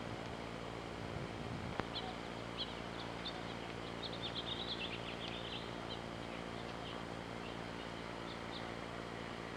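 Small birds chirping in short, high notes, busiest about four to five seconds in, over a steady background hum and hiss. A single click comes just before two seconds in.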